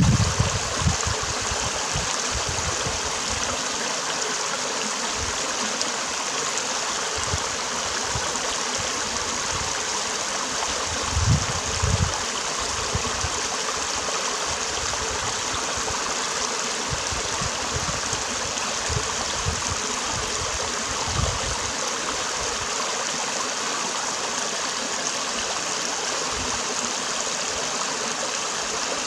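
Stream water running and gurgling steadily, with a few brief low thumps, once at the start and twice about eleven to twelve seconds in.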